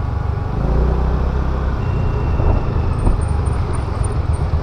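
Steady wind rush and low rumble on the microphone while riding a Honda Activa scooter, with a faint high tone and a few small high chirps in the middle.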